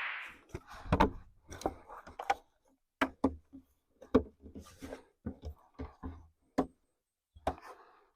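Irregular clicks, knocks and clatters of camping gear being handled and unpacked, a dozen or so separate short sounds with brief pauses between them.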